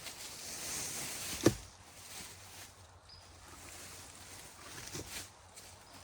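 Rustling, then a single sharp thump about one and a half seconds in, and a softer knock near the end.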